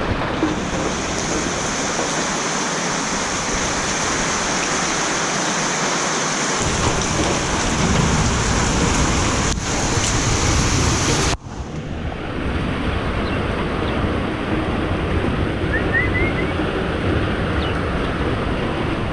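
Heavy rain pouring down steadily. The sound cuts out briefly just past halfway and then carries on.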